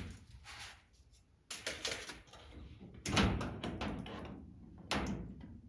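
Handling noise from a plastic body panel being positioned against a race car's door: knocks and scrapes, with sharp bumps about one and a half, three and five seconds in.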